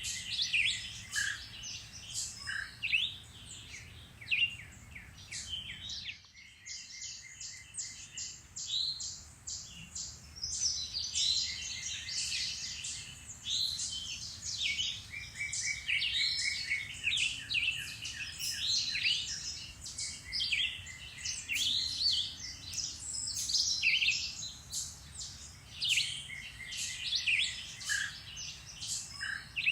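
Several woodland birds singing and chirping at once, a dense chorus of short calls and trills, with a low steady background hum underneath.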